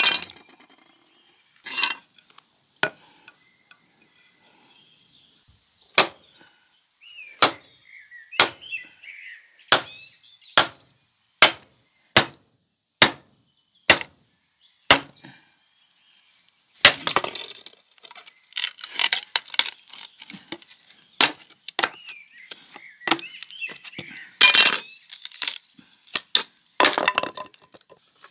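Hand-tool strikes: a steady run of sharp knocks, about one every 0.8 seconds, in the middle, then a busier stretch of clinking knocks.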